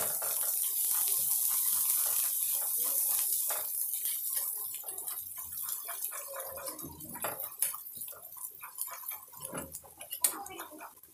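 Ground onion-garlic masala sizzling in hot oil in a steel kadhai while being fried down, stirred with a metal spatula that scrapes and clinks against the pan. The sizzle fades over the second half, leaving mostly the scraping, with one sharp clink near the end.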